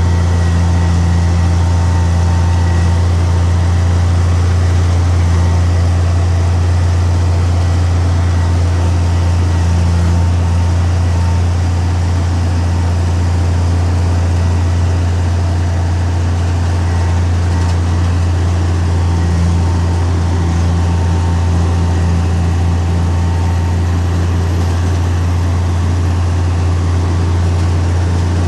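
Heavy diesel engine of earth-moving machinery running steadily at an even speed, with a deep constant drone.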